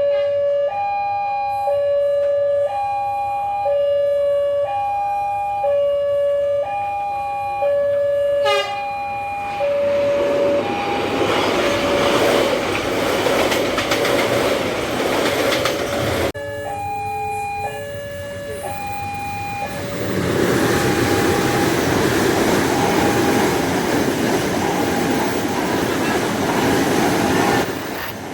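Railway level-crossing warning alarm sounding alternating high and low tones, each under a second, then a train passing and drowning it with the rumble of its wheels on the rails. After a sudden cut about 16 s in, the two-tone alarm sounds again and a second train passes about 20 s in.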